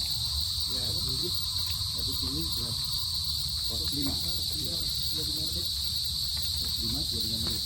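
A steady, high-pitched insect chorus, one unbroken drone, with faint voices underneath.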